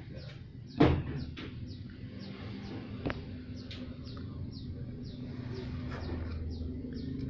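A bird chirping over and over, short falling chirps a few times a second. A single sharp knock about a second in, and a fainter click near the middle.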